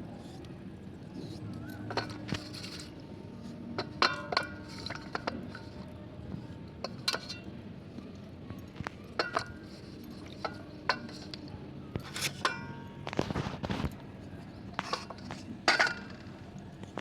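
Slate pencils cracking and crunching: sharp, brittle snaps at irregular intervals, a few of them ringing briefly, with the loudest near the start and near the end.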